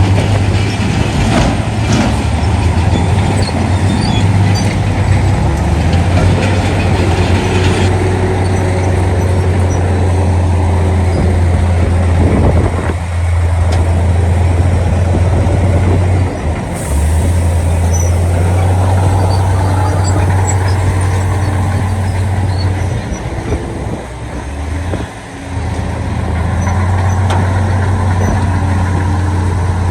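Diesel engines of heavy earthmoving machines working, a loud steady low drone that dips briefly a few times.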